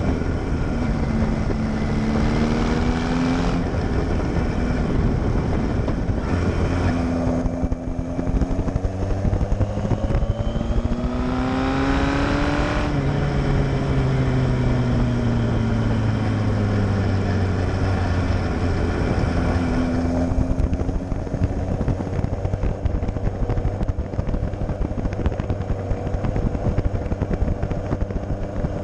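Kawasaki Z1000 chopper's inline-four engine through a straight-pipe quad exhaust while riding. The engine pitch climbs, breaks, then rises hard to about halfway through before dropping and falling away as it slows, and it settles to a steady cruise for the last third.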